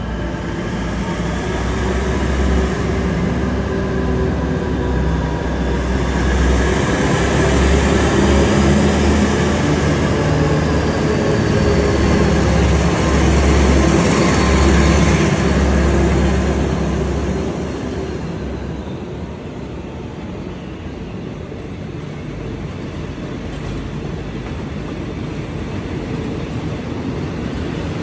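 Diesel-electric locomotive hauling a passenger train slowly past: a deep engine rumble that builds and is loudest as the locomotive goes by, then eases off about eighteen seconds in as the passenger coaches roll past.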